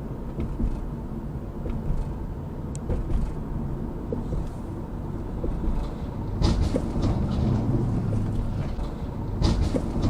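Road and engine rumble of a car driving, picked up by a dashcam, with louder bursts of noise about six and a half and nine and a half seconds in.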